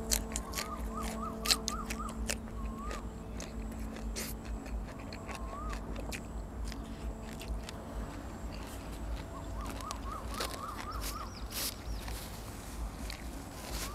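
Close-up eating sounds: chewing and crunching, heard as many sharp clicks. In the background an animal gives short rising-and-falling chirps in two quick runs, about a second in and again after about ten seconds.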